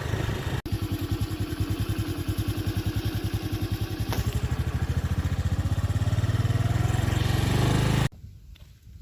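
A vehicle's engine running with a fast, even throb that grows slightly louder, then cuts off abruptly about eight seconds in, leaving quieter outdoor sound.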